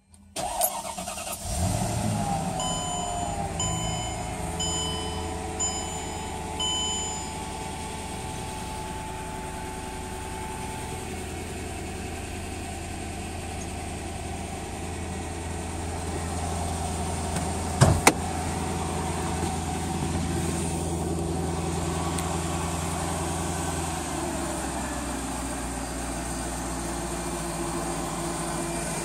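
Mercedes-Benz E500's 5.0-litre V8 cranking briefly, catching, and idling on a cold start. A run of short warning-chime beeps sounds over the first several seconds, and a single sharp knock comes about halfway through. Near the end the idle steps down lower.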